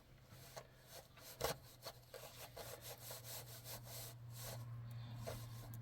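Faint, irregular scraping or rubbing strokes with a few light clicks, over a steady low hum.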